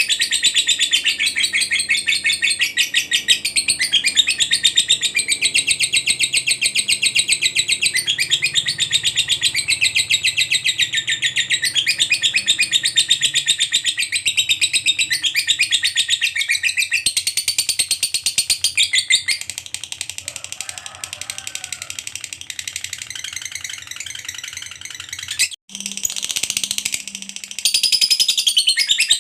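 Lovebird in a long 'ngekek': a fast, unbroken chattering trill of high notes. It grows quieter about two-thirds of the way through, breaks off sharply, then picks up again loud near the end.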